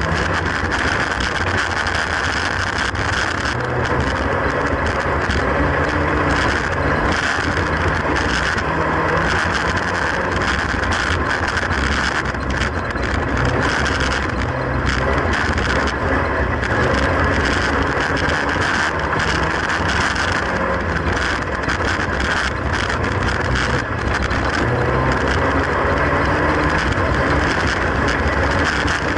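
Classic Mini race car's A-series engine running hard under racing load, heard from inside the stripped cabin, its pitch rising and falling again and again as the throttle is worked, with knocks and rattles from the car's shell.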